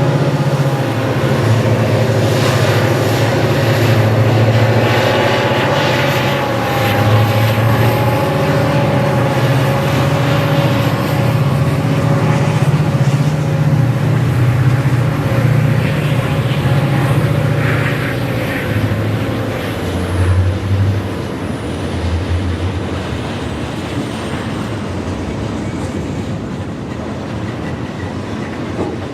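Diesel-electric freight locomotives running as a Canadian National train passes, with a deep engine throb and a steady whine. Both fade over the last third and give way to the rolling of the train.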